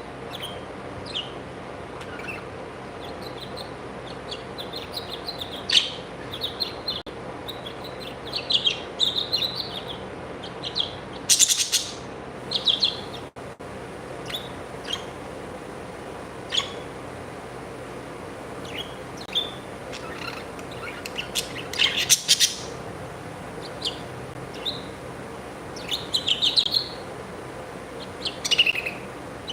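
Pet birds chirping in short, scattered tweets, with louder flurries of chirps about 11 and 22 seconds in.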